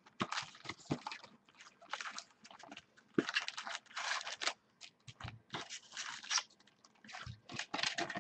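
Packaging of a Bowman football card box being opened, with plastic or foil wrapping crinkling and tearing in irregular rustling bursts.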